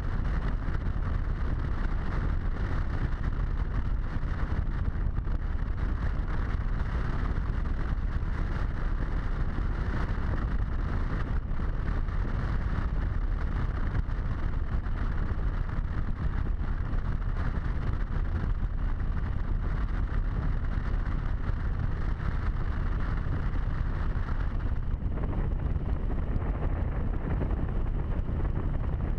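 Wind rushing over a helmet-mounted camera, with a Harley-Davidson V-twin motorcycle engine running underneath at road speed. The rushing eases about 25 seconds in.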